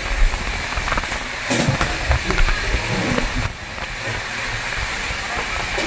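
Train running along the track: a steady rumble of wheels on rails with scattered short clicks.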